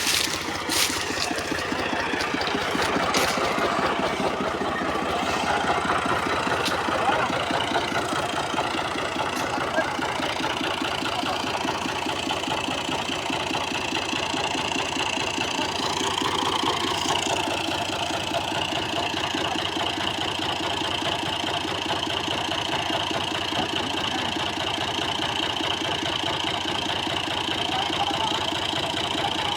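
Al-Ghazi 65 hp diesel tractor engine running steadily, with a few sharp knocks in the first few seconds.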